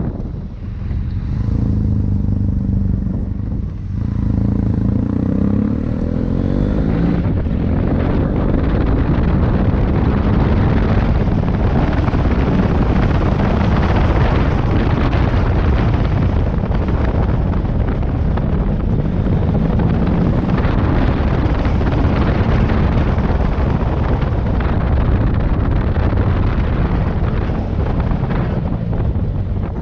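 Motorcycle engine running while riding, its pitch rising and falling over the first several seconds, then a steady drone with wind rushing over the microphone.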